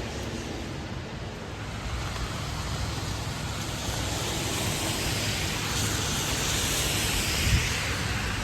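Heavy rain hissing, swelling louder about two seconds in, over a low rumble, with one brief knock near the end.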